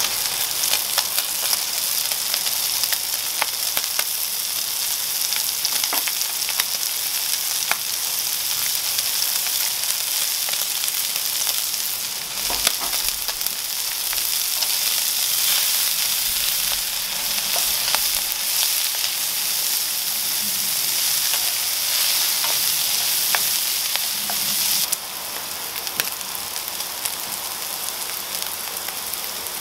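Ground beef frying in clarified butter in a nonstick pan, a steady sizzle full of small crackles. Partway through, diced onion and red pepper join the meat and fry with it. The sizzle drops to a quieter level near the end.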